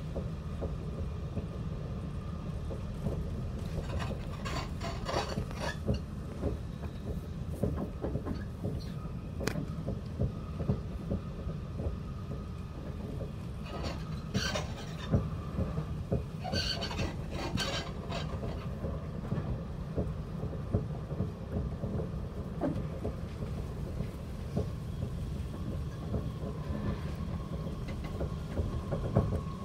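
Inside a moving train carriage: the steady low rumble of the running train, with bouts of rattling and clattering a few seconds in and again near the middle.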